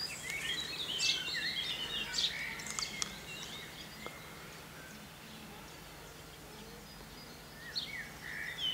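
Songbirds singing: a run of chirps and short whistled phrases in the first few seconds, quieter in the middle and picking up again near the end, over a steady low hum.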